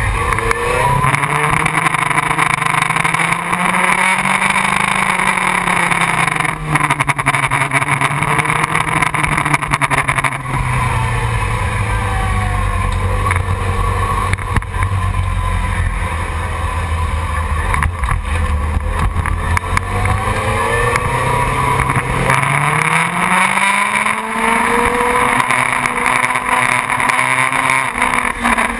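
Motorcycle engine running under varying throttle. Its pitch rises and falls through the first ten seconds, settles low and steady for a long stretch, then climbs again over the last several seconds.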